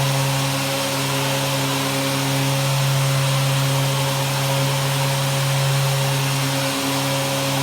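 Dustless sanding unit running steadily: a sander with its dust-extraction vacuum, a constant low motor hum under an even rushing hiss.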